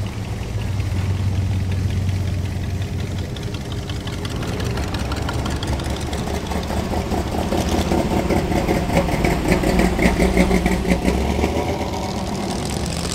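Classic cars and hot rods driving slowly past, their engines running at low speed with a pulsing exhaust note that grows louder past the middle as a car passes close.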